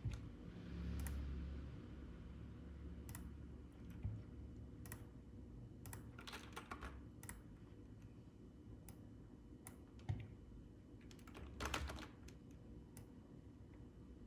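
Sparse, irregular clicks of computer keys and a mouse, with short quick runs of clicks about six to seven seconds in and again near twelve seconds, over a faint low hum.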